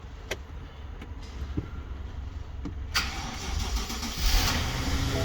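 BMW 750Li twin-turbo V8 (N63) starting: it fires about three seconds in, flares up briefly, and settles toward a steady idle.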